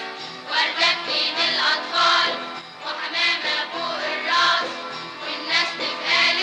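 A choir singing an Egyptian Arabic song over instrumental backing.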